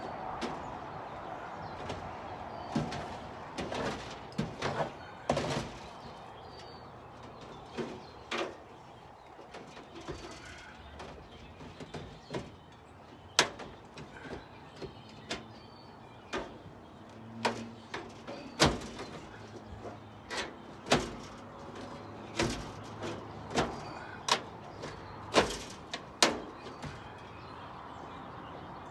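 Irregular sharp knocks and clicks, about one a second and louder in the second half, from hand tools working on a wooden rabbit hutch as its old wire floor is taken out.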